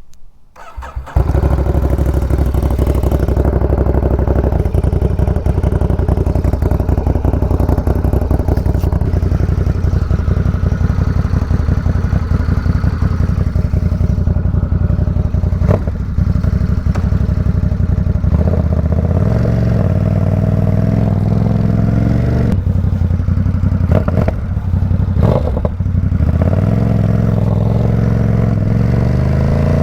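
Ducati Supersport 950 S's 937 cc L-twin, breathing through a Competition Werkes aftermarket exhaust, starts up about a second in and idles loudly and steadily. In the last third the revs rise and fall as the bike moves off, with a few sharp clicks.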